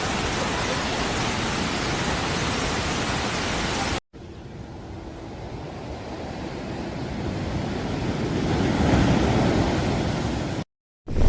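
Strong hurricane wind rushing in steady noise. After a short break about four seconds in, a second stretch of rushing wind builds up louder before cutting off near the end.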